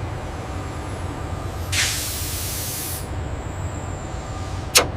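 Steady low machine hum, with a burst of hissing, like air or spray being released, about two seconds in that lasts about a second, and a sharp click near the end.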